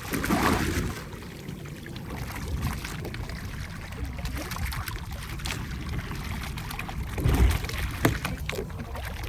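Water sloshing and trickling around a fishing boat over a steady low rumble, with a louder low surge about seven seconds in.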